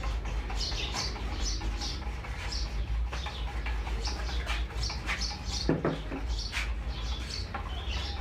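Small birds chirping over and over, short high chirps a few times a second, over a steady low hum.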